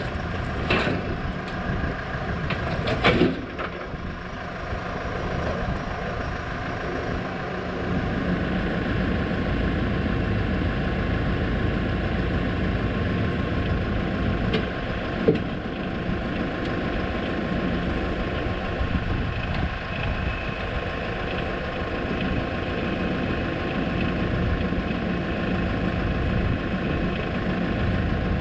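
Small tractor engine running steadily, with a few short clanks about a second in, around three seconds in and about fifteen seconds in.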